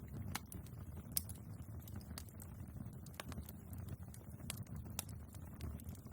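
Wood fire burning in a fireplace: irregular sharp crackles and pops from the logs over a steady low rumble of the flames, with one louder pop about a second in.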